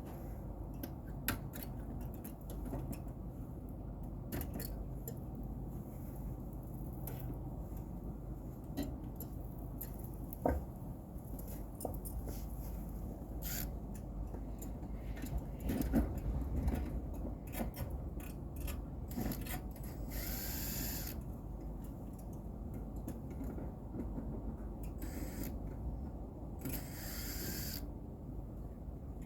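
Hand-tool work: scattered light clicks and rubbing over a low steady rumble, with two short hissing bursts, one about two-thirds of the way through and one near the end.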